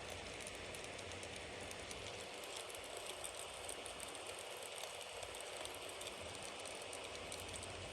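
Wood fire crackling steadily, a soft hiss dotted with many small, quick snaps and pops.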